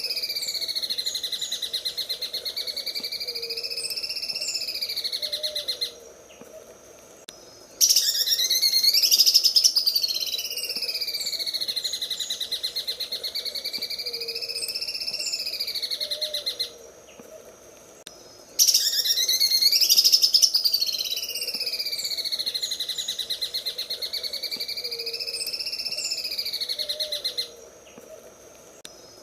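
Green leafbird (cucak ijo) singing its 'sewing machine' song: a long, rapid chattering trill that wavers up and down in pitch. The same phrase of about eight seconds plays three times with short pauses between, as in a looped training recording.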